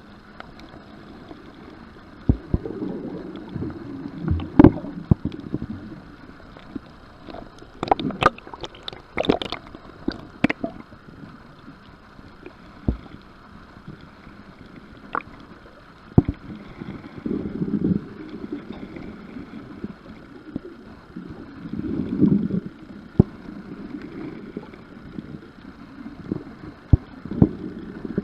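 Water sloshing and gurgling around a small boat's hull, with scattered sharp knocks and clunks and occasional gusts of wind on the microphone.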